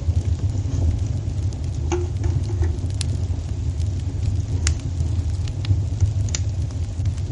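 Wood fire burning in a fireplace: a steady low rumble of the flames with scattered sharp crackles and pops, a few each second.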